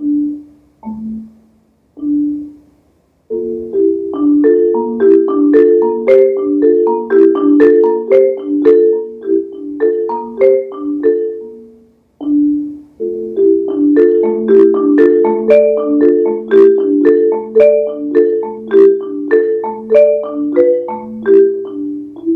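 Solo marimba played with mallets: a few separate notes, then fast repeating patterns of struck notes. The patterns break off briefly about twelve seconds in, resume, and end on a ringing note.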